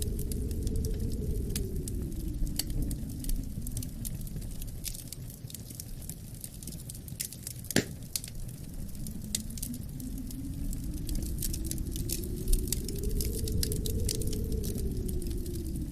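Wood fire crackling with frequent small pops and one sharper pop about eight seconds in, over low wind that dies down in the middle and swells again near the end.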